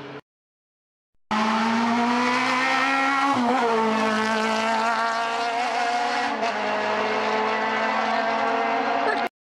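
Race-prepared first-generation Renault Clio engine running hard at high revs as the car climbs through a bend. Its note rises, dips briefly twice and then picks up again. The sound starts suddenly after a second of silence and cuts off abruptly near the end.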